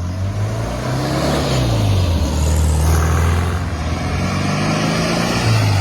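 Car engine running, its pitch rising and falling a few times.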